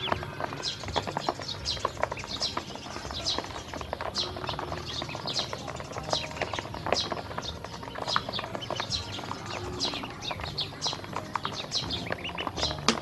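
A group of baby ducklings peeping without pause: many short, high, falling peeps overlapping several times a second, with quick clicking and tapping of their bills as they peck at feed.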